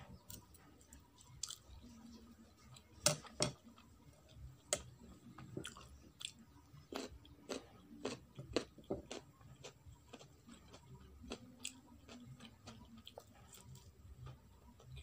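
Close-up chewing and biting of Maggi noodles and fried pakoda: irregular wet smacks and sharp clicks, the two loudest about three seconds in.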